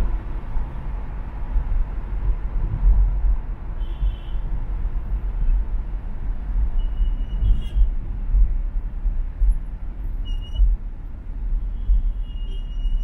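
Road noise from a vehicle driving on an urban expressway: a steady, loud low rumble with gusty wind and tyre noise. A few short, faint high-pitched squeaks come through about four seconds in, near eight seconds, and again near the end.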